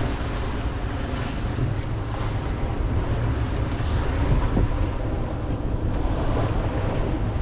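Strong wind buffeting the microphone with a steady low rumble, over waves washing against a small sailing yacht's hull.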